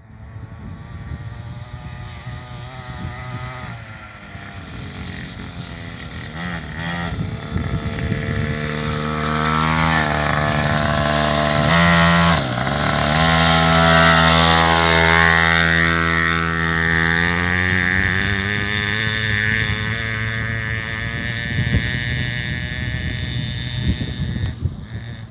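Dirt bike engine running under throttle, its pitch rising and falling as it is revved. It grows louder to a peak about halfway, with a sudden drop and recovery in pitch near the middle, then fades a little.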